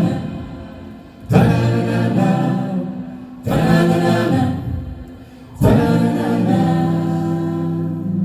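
A group of voices singing without words, in three held chords. Each chord comes in suddenly and fades away before the next.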